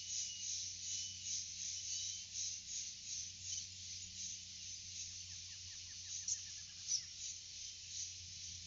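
Forest ambience: a steady, pulsing, high-pitched insect chorus, with a bird giving a quick descending run of notes about five seconds in. Two sharp clicks come near the end, under a steady low hum.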